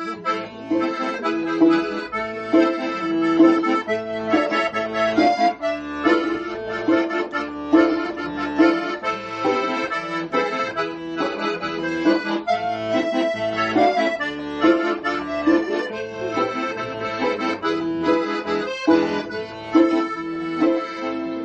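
Accordion music with sustained chords over a steady bass beat: the instrumental introduction before the singing comes in.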